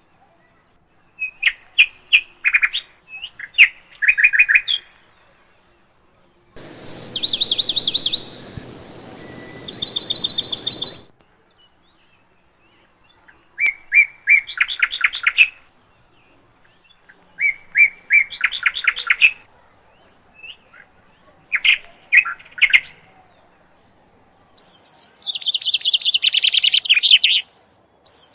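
A songbird singing repeated short phrases of rapid trilled notes, with pauses of a second or two between phrases. From about six to eleven seconds in, a steady hiss runs under the song.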